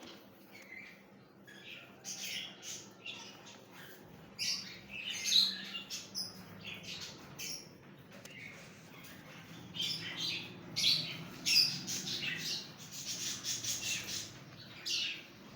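Many caged pet birds chirping and squawking in short, sharp, overlapping calls, busiest in the second half.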